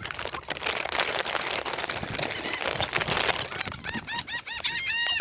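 Rustling with many small clicks, then, about four seconds in, a quick run of short, repeated bird calls, several birds overlapping.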